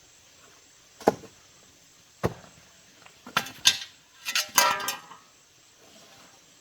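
Two single sharp knocks, then a quick run of clinks and clattering of hard objects being handled, with a brief ringing near the end.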